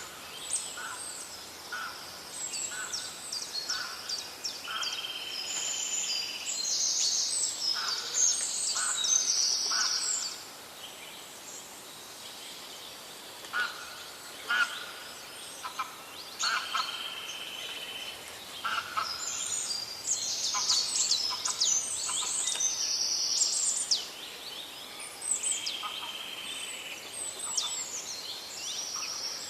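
Songbirds singing: rapid runs of high chirps and trills mixed with short held whistled notes, thinning to a lull about a third of the way in before the singing picks up again.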